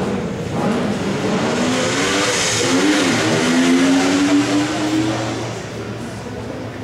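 Motorcycle engine revving. Its pitch rises and falls, then climbs steadily for a couple of seconds about three seconds in before fading away.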